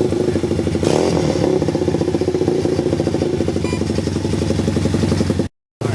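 Dirt bike engine running steadily, with a close, even firing beat. Near the end the sound cuts out abruptly for a moment, then comes back.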